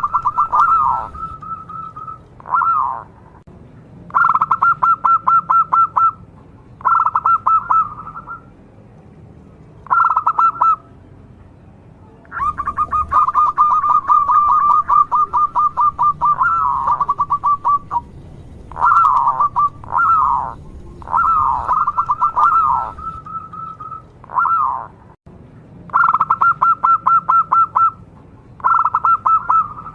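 Local zebra dove (perkutut) singing its cooing song: phrases of fast staccato notes at one pitch, some of them ending in falling coos, repeated with short pauses between them. One long run of notes comes around the middle.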